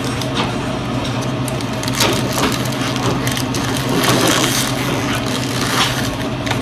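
Close-up chewing of a mouthful of In-N-Out Double-Double cheeseburger, with the paper wrapper crinkling as it is pulled back from the burger; an irregular run of crackles and small clicks.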